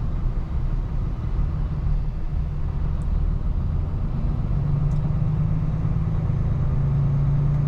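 Diesel engine of an HGV tractor unit running low and steady in slow, queuing traffic. A steady hum note comes in about halfway through and holds.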